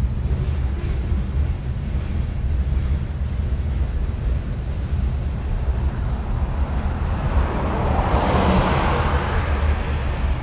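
Freight train rolling past at close range: a steady low rumble of the cars on the track, with a swell of brighter hissing noise near the end.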